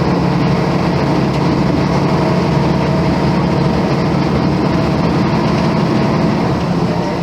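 Volvo B10M bus's mid-mounted six-cylinder diesel engine running steadily, a loud even drone.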